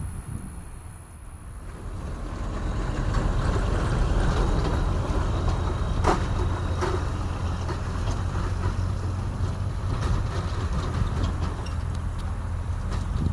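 Sikorsky HH-60G Pave Hawk helicopter running, a steady low drone that grows louder about two seconds in and then holds. A sharp crack sounds about six seconds in.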